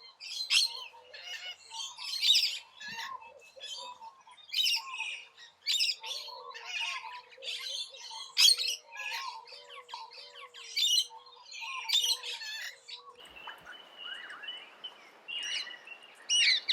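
Wild birds calling: a busy run of short chirps and squawks, many calls close together. About thirteen seconds in the calls give way to a hiss with a steady high whistle.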